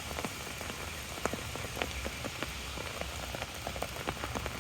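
Steady rain falling on an umbrella held overhead, with many separate sharp drop ticks landing at irregular intervals over an even hiss.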